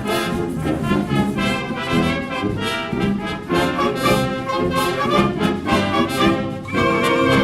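Wind band playing, brass to the fore, with regular accented chords; a louder held chord comes in near the end.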